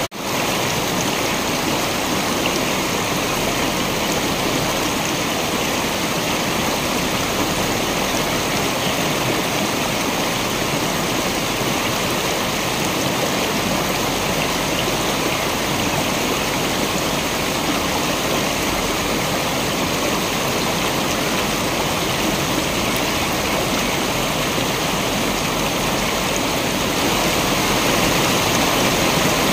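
Waterfall: a steady, even rush of falling water, swelling slightly near the end. A split-second dropout right at the start.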